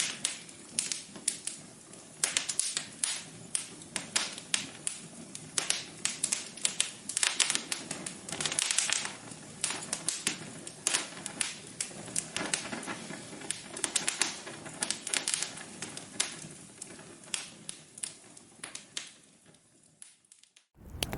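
Wood fire crackling in a fireplace: irregular sharp pops and snaps over a low steady hiss. It fades out about a second before the end.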